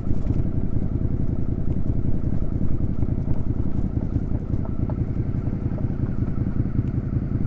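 Third-generation Suzuki SV650's V-twin engine running steadily through a Delkevic aftermarket exhaust, with an even, low pulsing note that holds its pitch.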